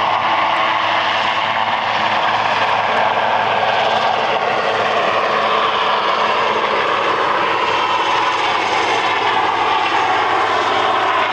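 Helicopter of the Marine One flight flying past: loud, steady engine and rotor noise, its pitch sinking slowly in the second half as it moves away.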